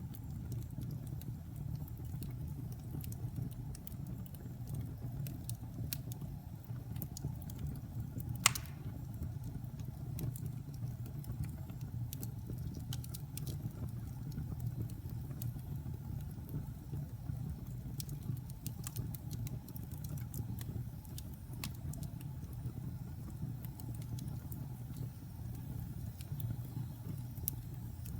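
Fire burning in a fireplace: a steady low rumble with scattered small crackles, and one sharp pop about eight seconds in.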